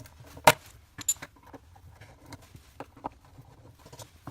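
Small clicks and knocks of hand work on light fittings and tools: one sharp knock about half a second in, another about a second in, then scattered lighter clicks.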